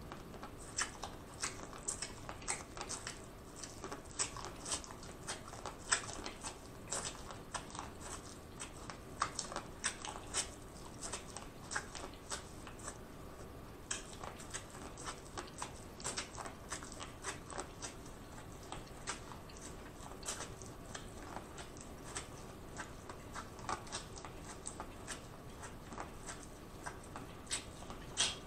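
Biting into and chewing boiled corn on the cob: a steady run of irregular sharp crunches and clicks, several a second.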